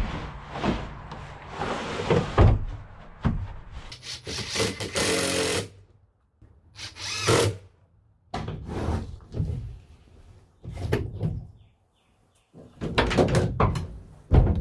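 Short bursts of a power drill running, mixed with knocks and clatter of wood being worked, in several separate clips cut one after another.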